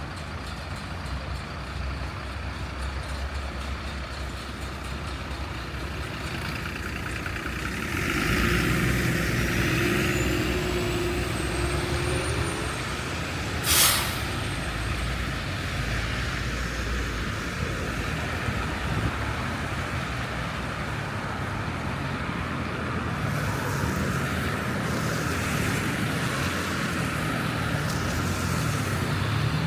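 City road traffic: a steady rumble of passing vehicles that grows louder about eight seconds in as one draws near. A faint high whine rises and falls, and a brief sharp hiss comes about fourteen seconds in.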